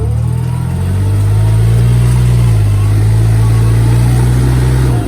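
Off-road vehicle engine revving up about a second in and held at high revs under load, then dropping off sharply at the end.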